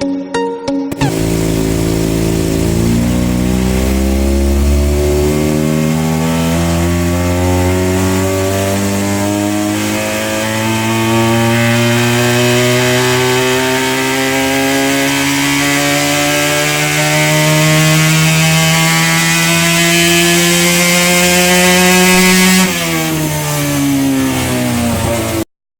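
Benelli TNT 300 parallel-twin engine with an Akrapovic exhaust on a dynamometer, pulled under load with its note rising steadily for about twenty seconds, then the throttle closes and the revs fall away before the sound cuts off suddenly. Music plays briefly at the start.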